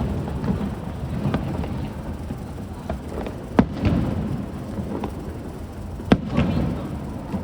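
Aerial fireworks bursting: two loud sharp bangs about three and a half and six seconds in, with a few smaller pops between, each followed by a low rolling rumble.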